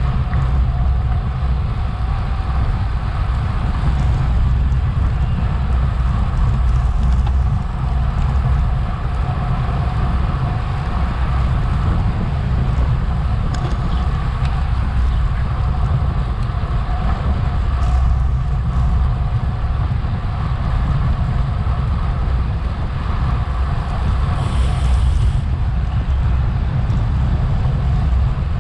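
Wind rushing over a bike-mounted action camera's microphone while racing, a steady low rumble. A brief high hiss near the end.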